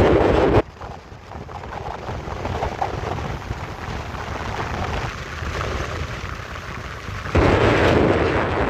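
Wind buffeting the microphone over the low rumble of a moving truck. The buffeting cuts out abruptly about half a second in, leaving a quieter low rumble, and comes back loud near the end.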